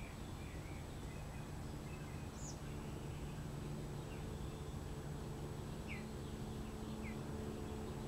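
A few short bird chirps, scattered now and then over a steady low hum and background noise.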